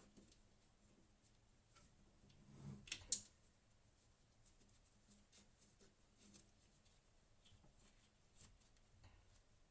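Near silence, with scattered faint clicks and one brief rustle that ends in a sharper click about three seconds in.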